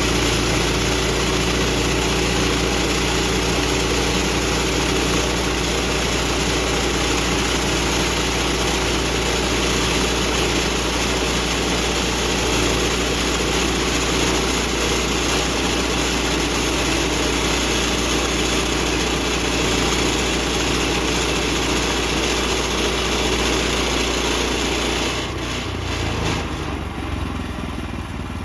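Woodland Mills HM126 portable bandsaw sawmill running steadily under its small gas engine. Near the end the engine note drops and the sound gets quieter.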